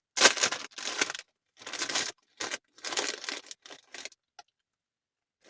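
Crinkling and rustling handling noise in a small space, in several quick bursts that thin out and stop about four seconds in.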